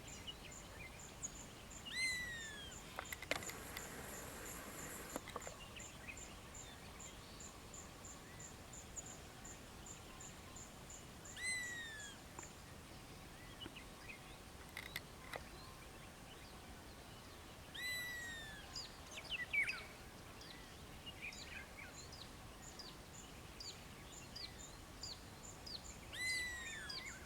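Lizard buzzard calling: a short falling whistle, repeated four times several seconds apart. Other birds call around it, and a rapid high ticking at about three a second runs through the first half.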